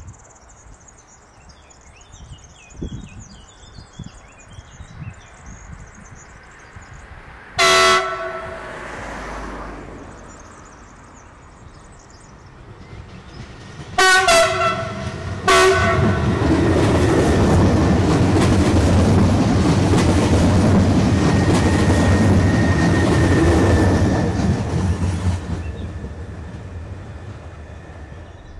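Stadler FLIRT electric multiple unit (Slovenian Railways class 510) sounding its multi-tone horn in three short blasts, one about eight seconds in and two close together around fourteen to fifteen seconds in, then passing close by with loud wheel-on-rail rumble and clatter that fades away near the end.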